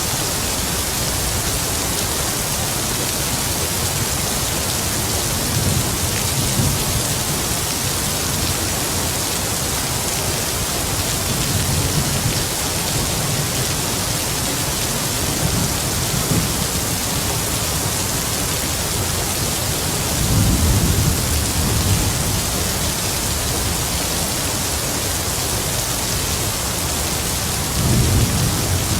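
Heavy rain falling steadily, with low rolls of distant thunder that swell and fade several times; the strongest roll comes about two-thirds of the way through and another near the end.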